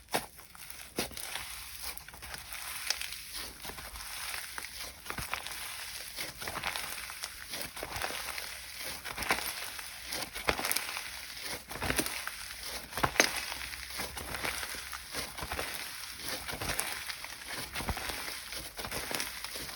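Slime being squeezed, stretched and pressed by hand, giving a dense run of small sticky clicks and crackles.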